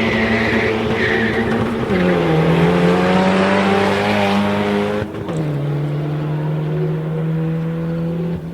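Car engine held at steady high revs while the tyres squeal, as in a burnout. The pitch drops about two seconds in, and after a sudden break about five seconds in, the squeal stops and a steady, lower engine note goes on.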